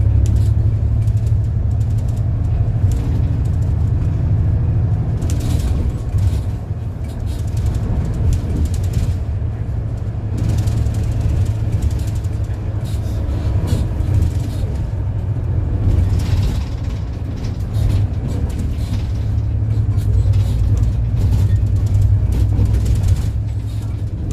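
City bus engine running with a steady low drone as the bus drives, with short bursts of hiss and rattle now and then.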